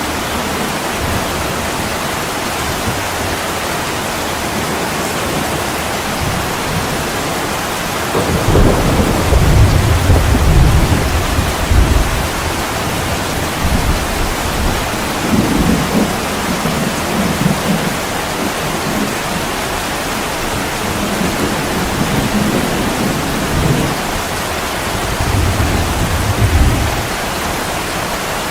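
Steady heavy rain on a window, with low rolls of thunder rumbling in about a third of the way through and several more times later.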